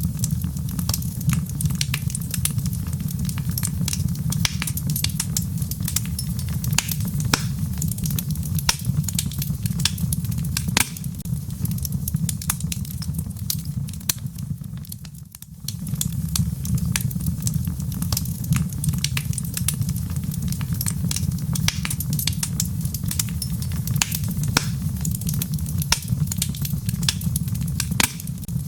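Wood fire crackling, with frequent sharp pops over a steady low rumble. The sound drops away briefly about halfway through, then comes back.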